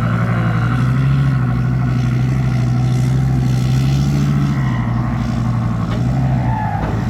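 Heavy diesel dump truck engine running hard under load, a steady low drone that drops in pitch about four and a half seconds in.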